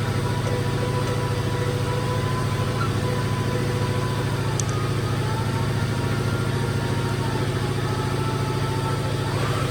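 A motor running steadily, with a low pulsing hum and a faint whine that wavers slightly in pitch.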